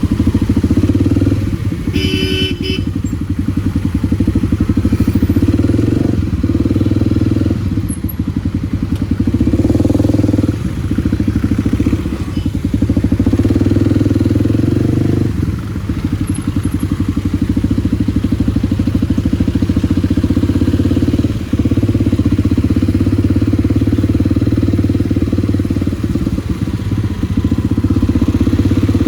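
Kawasaki D-Tracker 250's single-cylinder four-stroke engine, fitted with a White Brothers exhaust, running steadily under way. Its note dips briefly several times. A short high-pitched sound comes about two seconds in.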